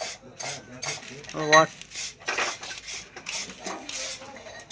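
Metal tool scraping and clinking on engine parts in quick repeated strokes, about three a second, with a brief voice about a second and a half in.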